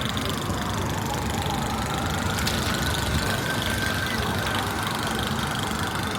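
Emergency-vehicle siren wailing slowly: its pitch falls over the first second or so, then climbs and holds. Under it runs a steady low rumble of street traffic.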